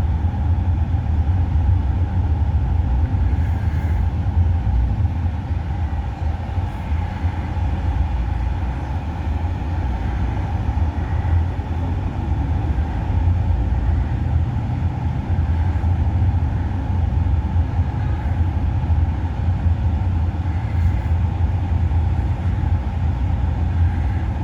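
Steady low rumble of a motor vehicle being driven: engine and road noise, even throughout.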